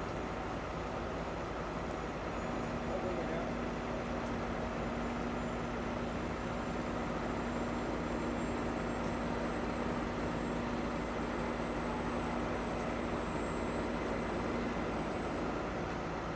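Steady vehicle noise: running engines and roadway traffic, with a steady drone that comes in about two seconds in and drops out near the end.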